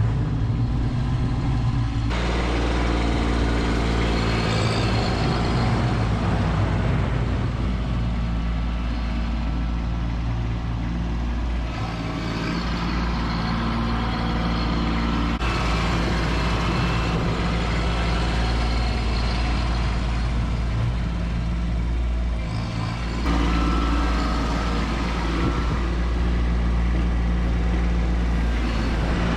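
Kubota B2601 compact tractor's three-cylinder diesel engine running under load, its pitch shifting up and down a few times as it works.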